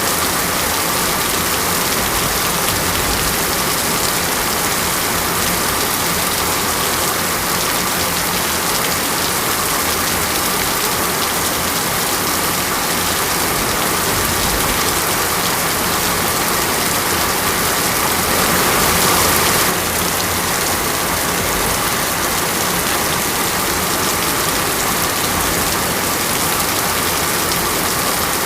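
Heavy rain falling steadily on a surface, a dense, even hiss. About two-thirds of the way through it swells slightly, then drops back suddenly.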